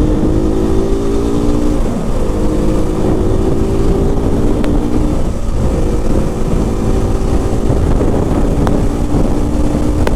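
KTM RC 200's single-cylinder engine running steadily under way, with low wind rumble on the microphone. The engine note breaks briefly twice, about two and five seconds in, and settles at a slightly different pitch each time.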